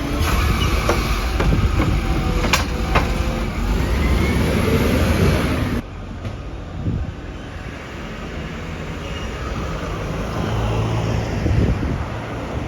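Garbage truck running with a heavy low rumble and several sharp metal clanks in the first half; about six seconds in the sound drops suddenly to a quieter, steady engine sound.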